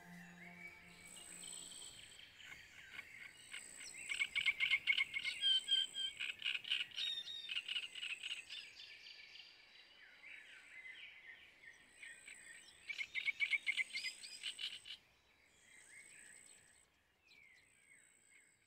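Birds singing: rapid runs of repeated high chirping notes, loudest in two spells, with quieter calls between and a thin high tone that comes and goes. The tail of background music fades out in the first two seconds.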